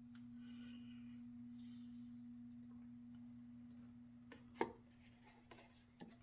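Faint steady low hum with a soft hiss in the first two seconds, then a single sharp knock about four and a half seconds in and a lighter one near the end.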